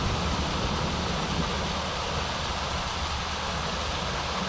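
Steady rush of a small waterfall tumbling over rocks into a creek, with a low rumble underneath.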